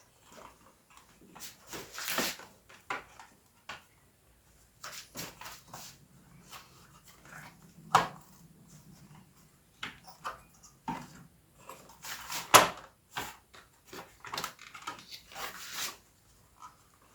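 Irregular clicks, taps and knocks from handling the opened keyboard's plastic casing, screws and parts during disassembly, with two sharper knocks about eight and twelve and a half seconds in.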